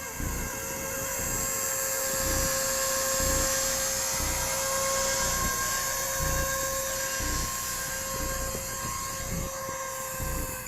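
Small electric RC helicopter (a 230S with an upgraded main motor and a three-blade main rotor) in flight: a steady electric motor whine and rotor hum that swells a little in the middle. Irregular low thumps of wind buffet the microphone.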